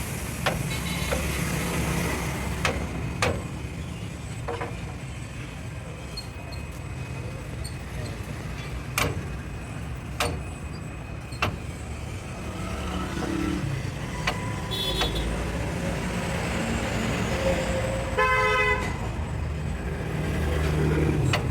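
Workshop noise over a steady low rumble of passing traffic: a handful of sharp metallic knocks, and a short vehicle horn honk near the end.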